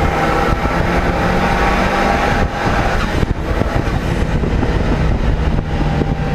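Zenos E10 S's turbocharged four-cylinder engine running hard at speed over heavy wind and road rumble. Its steady note breaks up briefly about two and a half seconds in, then holds again.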